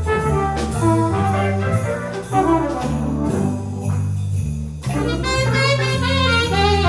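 Live jazz band playing a Christmas tune: a horn carries the melody over a stepping bass line and drums, with jingle bells.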